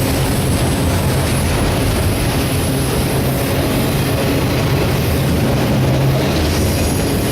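CSX freight train of autorack cars rolling past, a steady loud rumble of steel wheels on rail.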